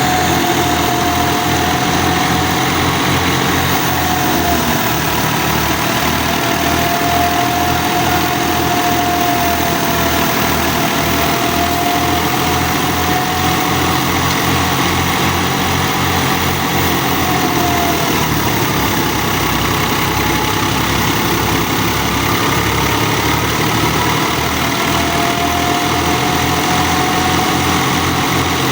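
Fiat 480 tractor's diesel engine running steadily while driving a thresher, with an even low beat and a high whine that drifts slightly up and down in pitch.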